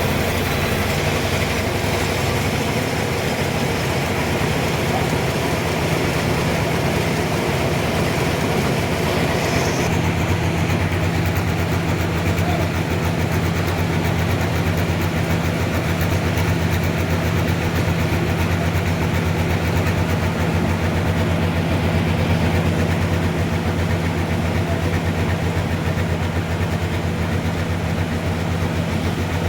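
Sawmill machinery running steadily: a low, even hum with a hiss above it. About ten seconds in, the hum grows stronger and the high hiss drops away.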